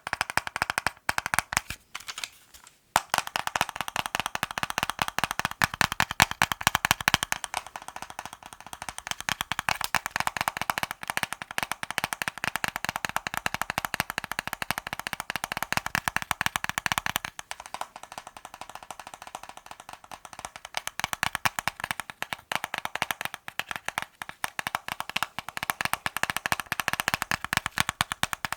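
Fast ASMR tapping on assorted objects: a dense, rapid run of light taps, many per second, with a brief break about two seconds in.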